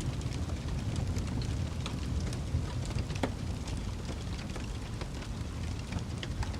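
Campfire burning: a steady low rumble of flames with scattered crackles and pops of the burning wood, one louder pop about three seconds in.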